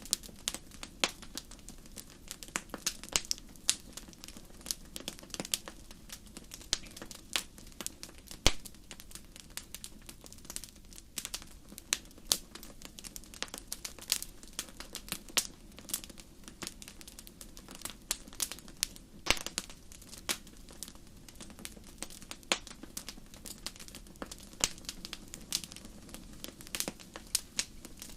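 Campfire crackling: a steady stream of irregular sharp pops and snaps from burning wood over a low, even hiss of the flames.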